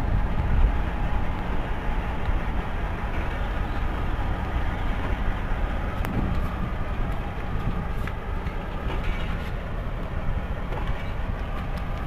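Passenger train running slowly along the track, heard from on board: a steady rumble of the wheels and running gear.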